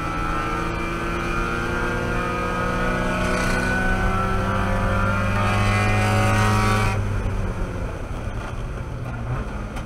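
Mazda Miata race car's four-cylinder engine at full throttle in fourth gear, heard from inside the cockpit, its note rising slowly as the car accelerates. About seven seconds in, the driver lifts off the throttle, and the engine sound drops suddenly to a quieter, rougher note.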